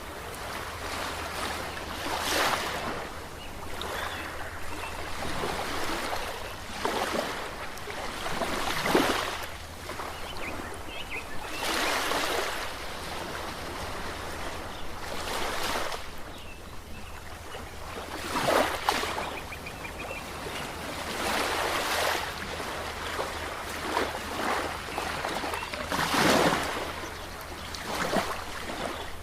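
Ocean surf: waves breaking and washing in, one swell of hiss every two to four seconds, the largest about nine seconds in and again near the end.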